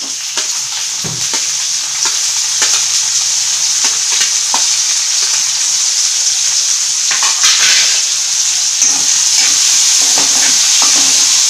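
Chopped tomatoes sizzling as they hit hot oil and fried onions in a kadai, the sizzle growing louder over the first couple of seconds, with a steel spoon clicking and scraping against the pan as they are stirred.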